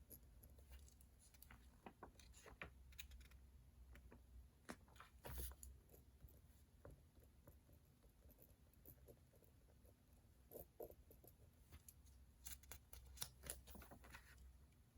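Faint desk sounds of someone studying: irregular light taps, clicks and short paper rustles over a low steady room hum, busiest about five seconds in and again near the end.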